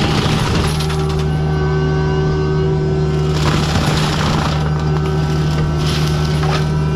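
Compact forestry mulcher's engine running steadily under load with a constant hydraulic whine, and the cutting drum grinding into wood in two rough surges, about three and six seconds in.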